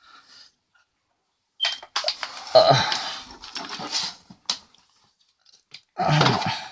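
Week-old boxer puppy squeaking and grunting in short bursts, starting about a second and a half in, with another loud burst near the end.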